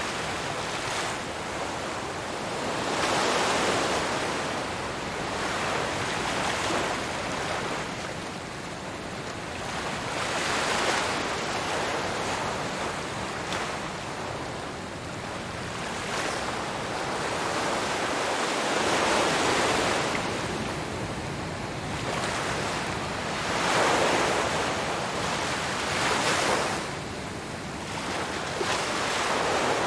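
Ocean surf: waves breaking and washing ashore, the rush swelling and fading every few seconds.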